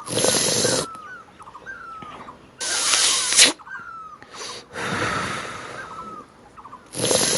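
Four loud hissing bursts, each about a second long, like an animal's breaths or snorts, with faint bird chirps between them.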